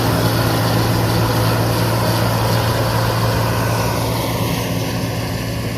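Heavy John Deere farm machinery diesel engine running steadily with a deep, even hum and broad mechanical noise, growing a little quieter near the end.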